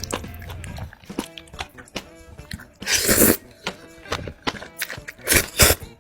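Close-miked eating sounds: a run of small crunchy clicks from biting and chewing food, with two louder noisy bursts about three and five and a half seconds in. Background music plays underneath.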